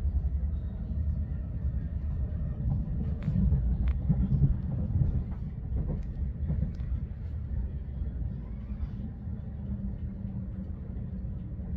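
Steady low rumble of a moving passenger train, heard from inside the carriage, with a few faint ticks.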